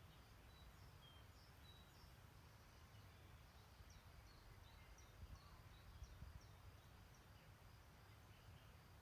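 Faint distant birdsong: scattered short, high chirps and whistles over a steady low rumble.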